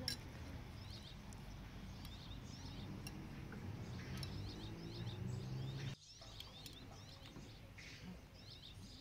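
Small songbirds chirping over and over in short, quick downward notes, over a low background hum that cuts off abruptly about six seconds in.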